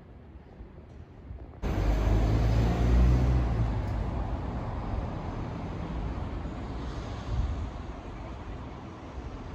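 A vehicle's low, noisy rumble that starts abruptly about a second and a half in. It is loudest for the next couple of seconds, then slowly eases off.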